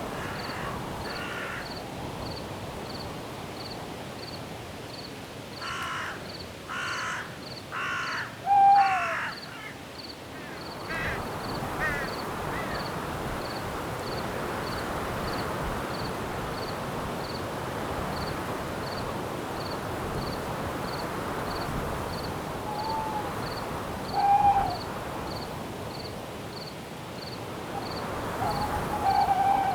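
Night forest ambience: a steady wind hiss with a cricket chirping evenly about twice a second. Around six to nine seconds in, four harsh caws in a row, then a short falling hoot, the loudest sound; a softer hoot comes again around 23 to 24 seconds.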